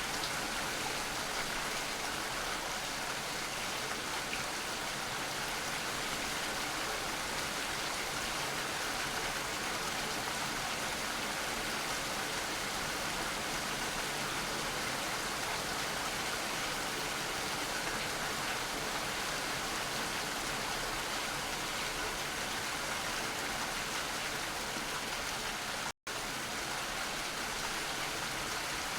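Steady rain, an even hiss of falling water with no single drops standing out. The sound cuts out for a split second about 26 seconds in.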